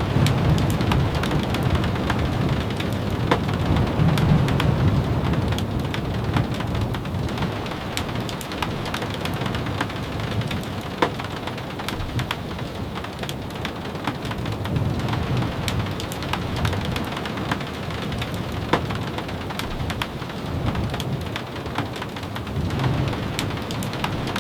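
Steady rain, with scattered sharp ticks and a low rumble that swells and fades several times.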